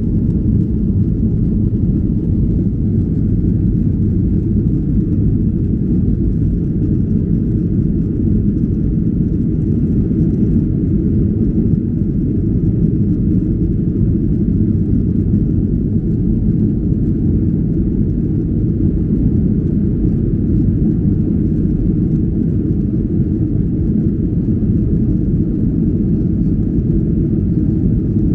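Steady, loud low rumble of a Boeing 737-800 airliner heard from inside the cabin in flight, with no change through the whole stretch.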